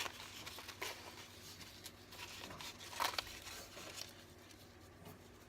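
Faint rustling and a few light taps of paper journal pages and tags being handled.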